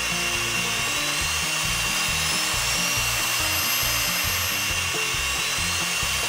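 Background music with a steady bass beat over a cordless air blower running: a steady rush of air with a high motor whine.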